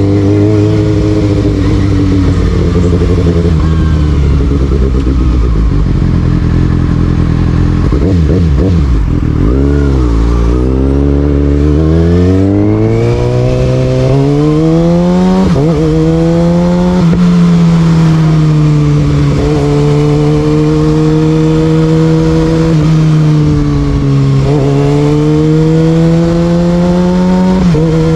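Kawasaki ZX6R's inline-four engine through an Austin Racing exhaust, being ridden. It runs steady and low at first, dips and wavers about a third of the way in, then revs climb with two quick upshifts past the middle and settles into a steady cruise with gentle rises and falls in pitch.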